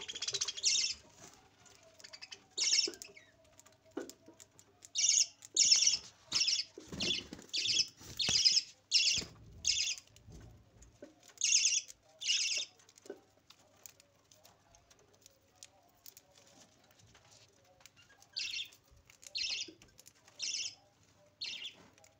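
Australian parrots giving short, harsh, high-pitched screeching calls, one after another in runs, with a quiet stretch in the middle.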